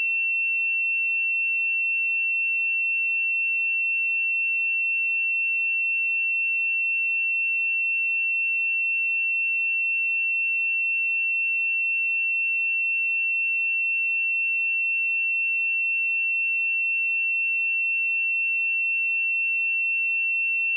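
A single steady, high-pitched pure tone, unchanging in pitch and loudness: an electronic sine-wave test tone.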